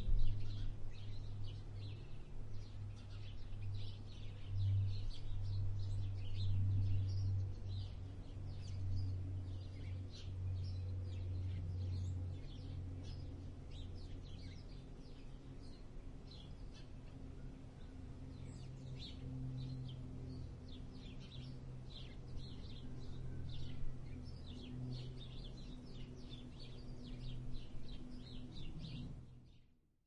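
Backyard birds chirping and twittering, with many short high calls overlapping throughout. A low steady rumble runs underneath, louder in the first half. The recording fades out just before the end.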